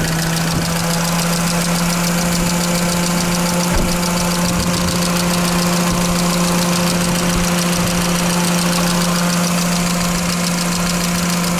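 Electric radiator cooling fan running at full speed with a steady whirring hum, over the Mercedes Vito's M111 2.3-litre petrol four-cylinder idling.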